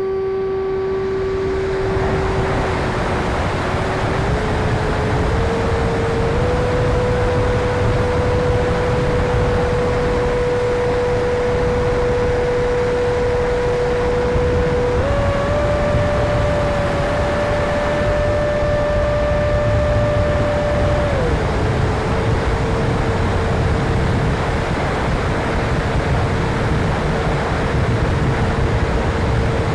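70mm electric ducted fan of an E-flite F-16 RC jet whining in flight over a steady rushing noise. Its pitch steps up with throttle over the first few seconds, goes higher around halfway, then drops again about two-thirds of the way through.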